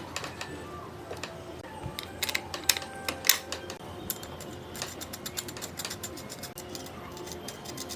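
A series of sharp clicks and taps: a few louder ones about two to three and a half seconds in, then a quicker run of lighter clicks.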